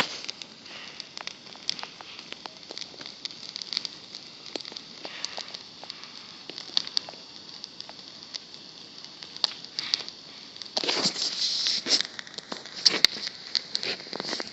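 Campfire wood crackling, with irregular sharp pops over a soft hiss. About eleven seconds in, a louder rustling noise rises for a second or so.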